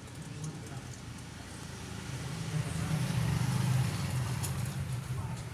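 Low rumble of a motor vehicle engine that swells about two seconds in and eases off near the end, with a few faint light clicks.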